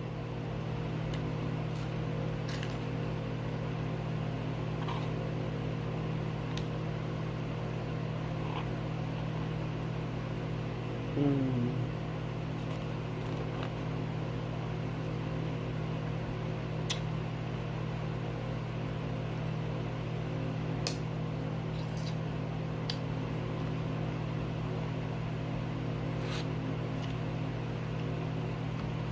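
Steady mechanical hum made of several even tones, like a fan or household appliance running, with scattered small clicks and taps. A short sliding sound stands out about eleven seconds in.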